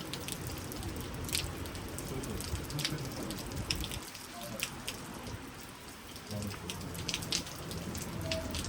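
Steady rain falling, with individual raindrops ticking sharply every so often against a low background rumble.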